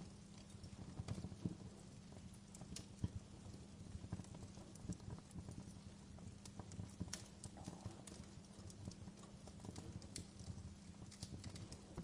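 Wood fire crackling: irregular sharp pops and snaps over a soft low rumble.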